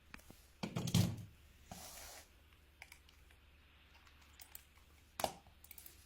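Quiet room with a few scattered clicks and soft knocks. The loudest is a short cluster of dull thumps about a second in, with a sharp click past the five-second mark.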